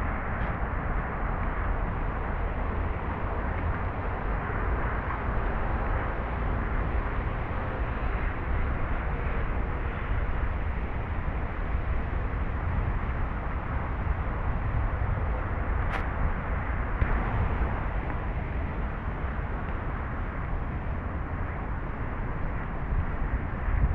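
Steady outdoor background noise, mostly a low rumble with a haze of higher sound over it, like distant traffic, and one sharp click about sixteen seconds in.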